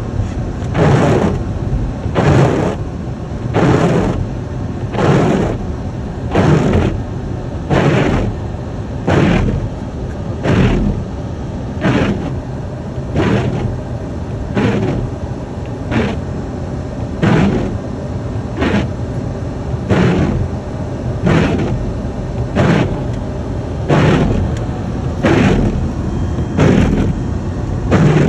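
Car windshield wipers sweeping at a steady pace, one swish about every second and a half, over the steady low rumble of the car driving.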